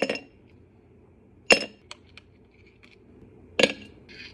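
Ice cubes dropped one at a time into a glass: three sharp, ringing clinks, one at the start, one about a second and a half in and one about three and a half seconds in, with lighter ticks between.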